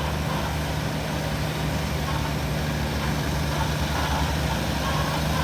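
Heavy truck's diesel engine pulling steadily up a steep grade, a constant low drone.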